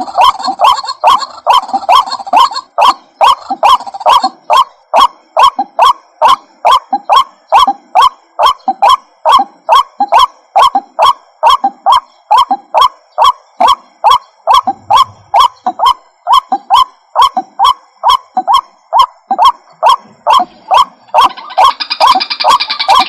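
Looped lure recording of white-breasted waterhen calls: a rapid, even run of short croaking notes, about two and a half a second, each with a sharp click at its start. A higher, busier layer of calls joins near the end.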